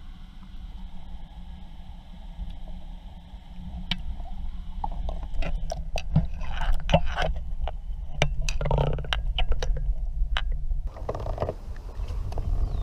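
A steady low rumble with a string of sharp knocks and clicks that begins about four seconds in and thickens toward the middle. The background changes abruptly near the end.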